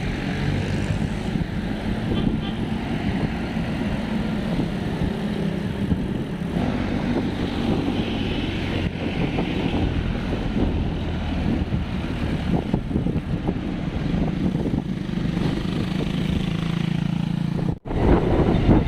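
Road traffic: a motor vehicle's engine running steadily close by, with road noise. The sound breaks off for a moment near the end.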